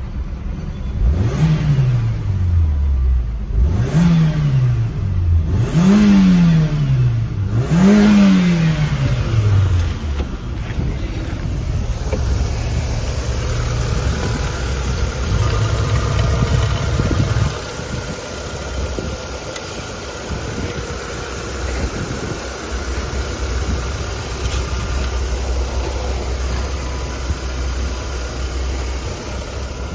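Mitsubishi 4G18 1.6-litre four-cylinder petrol engine revved four times in quick blips in the first ten seconds, each one rising and falling back, then settling to a steady idle.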